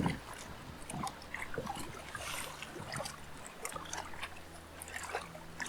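Choppy water lapping and trickling in light, irregular splashes and ticks, with a faint low hum underneath.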